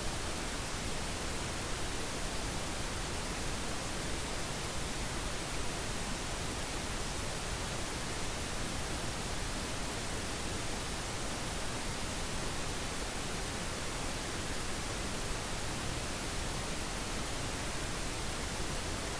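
Steady synthetic pink noise: an even hiss spread across all frequencies, unchanging in level.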